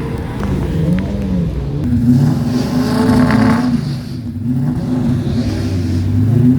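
A car engine revving, its pitch rising and falling several times, then held at a steadier speed from about two seconds in.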